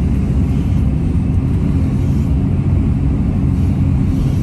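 Caterpillar 329 excavator's diesel engine running steadily, a continuous low rumble.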